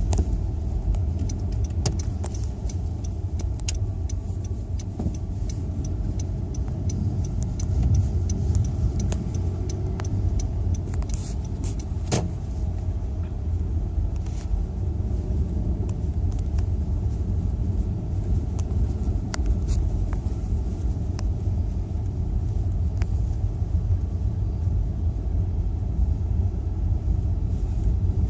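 Car driving, a steady low rumble of road and engine noise, with scattered sharp ticks and taps through the first half.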